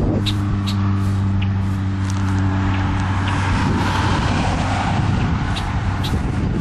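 A bird gives short, sharp, high alarm chirps, several in quick succession at the start and a couple more near the end, as it defends its nest. Under the chirps a steady vehicle engine hum runs, and around the middle a rushing swell comes and goes like a car passing.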